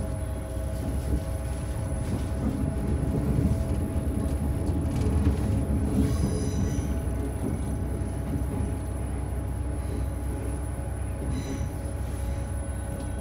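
Passenger train running, heard from inside the carriage: a steady rumble of wheels on track with a low hum. Two brief high squeals from the wheels come about six seconds in and again near the end.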